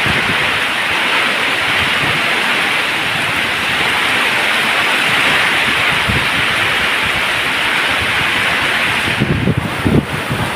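Waterfall, a steady loud rush of falling water with its hiss strongest in the upper-middle range. About nine seconds in it turns briefly uneven, with the hiss dipping and deeper surges.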